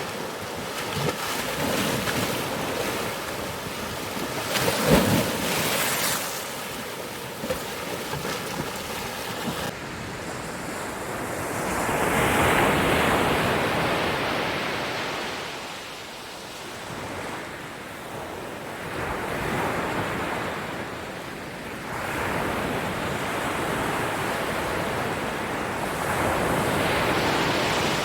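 Ocean surf: waves rushing in and breaking, with a sharp splash about five seconds in and a sudden change in the sound near ten seconds, then three slow surges of breaking waves.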